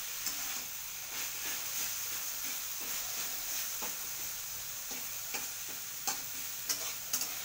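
Soybean chunks and chopped lai pata (mustard greens) sizzling as they fry in a steel kadai, with a steady hiss. A metal spatula stirs them, scraping and clicking against the pan at irregular moments.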